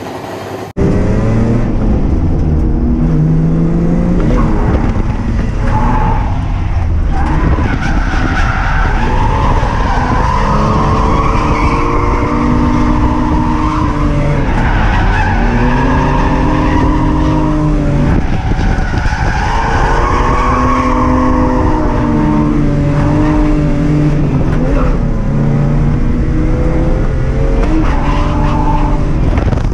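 Ford Barra inline-six engine in a Nissan R31 Skyline drift car, heard from inside the cabin, revving up and falling back again and again through a drift run, with tyres squealing. It starts abruptly less than a second in.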